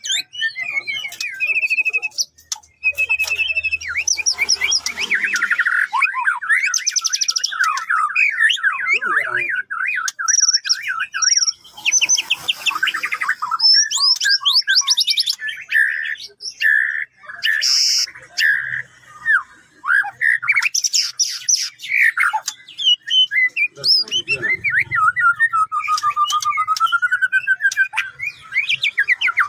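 White-rumped shama (murai batu) singing a long, varied song of clear whistles, gliding notes and rapid trills, with only brief pauses.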